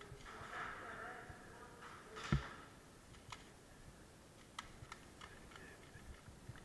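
Scattered sharp clicks, with one louder snap a little over two seconds in and a few lighter clicks after it, spaced irregularly.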